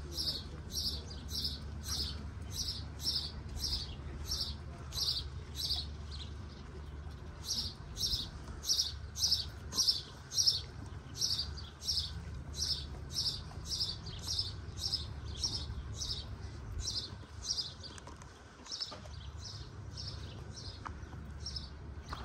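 A small bird chirping over and over in a steady rhythm, about two short high chirps a second, with a couple of brief pauses. A steady low rumble of background noise runs underneath.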